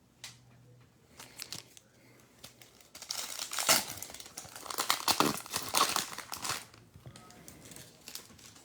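A trading card pack's wrapper being torn open and crinkled by hand. A few light handling clicks come first, then about three and a half seconds of loud tearing and crinkling from a little after three seconds in.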